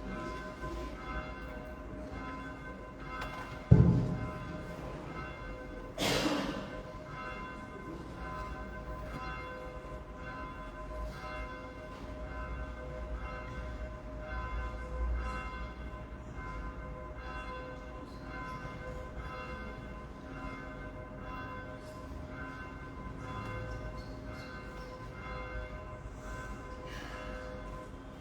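Church bells ringing, their tones held and overlapping. A loud thump about four seconds in, and a sharper knock about two seconds later.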